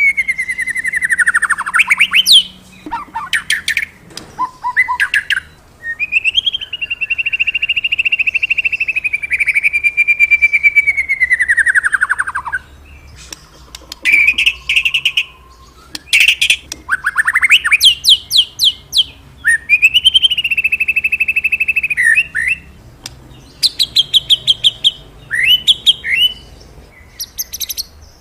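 A murai (Copsychus songbird) singing a loud, varied song: falling slurred whistles, quick runs of short notes, and two long warbling whistles, one in the middle and one later, with short pauses between phrases.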